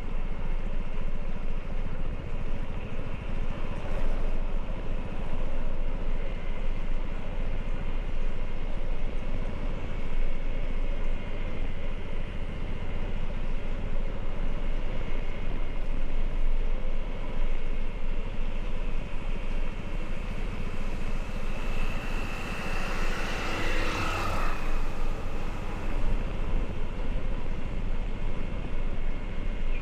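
Motorcycle running steadily on the road, a low rumble under a wash of wind noise, with a brief louder swell about three quarters of the way in.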